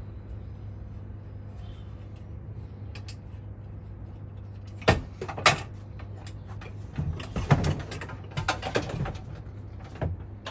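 A shed door being opened and tools handled at it: two sharp knocks about halfway through, then a run of clattering knocks and rattles, and one last knock near the end.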